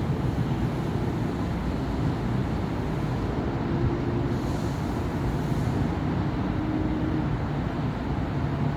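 Steady city road traffic: engines and tyres of passing cars and buses blending into one continuous noise, with a brief hiss about halfway through.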